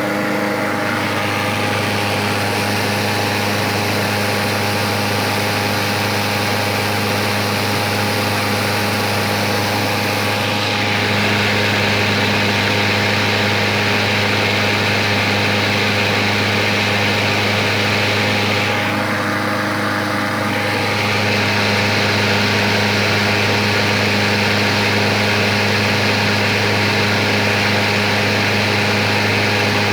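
Poulan Pro 22-inch walk-behind lawnmower running steadily, its blade spinning under the deck with water underneath. The engine note gets slightly louder about a third of the way in and dips briefly near the middle.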